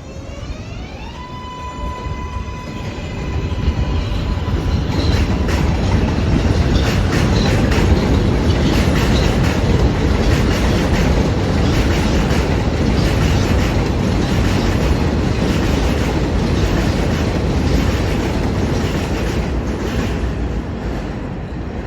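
R188 subway train's electric traction motors whining up in pitch and levelling off, as the train accelerates. A loud rumble and wheel clatter on the rails then builds over a few seconds and carries on steadily.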